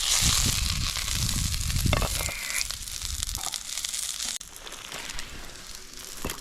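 Food sizzling and frying in a pan over a stick stove fire, a dense hiss full of fine crackles. It drops quieter about four seconds in.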